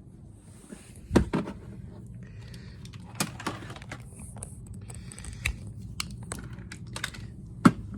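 Scattered clicks and knocks with some rustling between them, the loudest knocks about a second in and again near the end.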